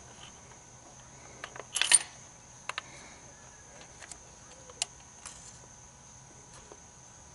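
Sharp metallic clinks and ticks of a magnetic pickup tool knocking against a loose spark plug down in its spark plug well while trying to lift it out. A quick cluster of clinks about two seconds in is loudest, followed by a few single ticks.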